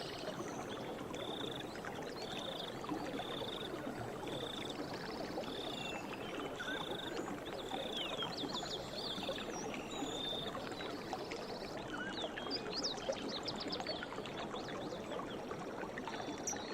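A river or stream flowing steadily, with birds calling over it: one repeats a short high note at an even pace, about three notes every two seconds, while others give quick sweeping chirps and trills, busiest in the middle of the stretch.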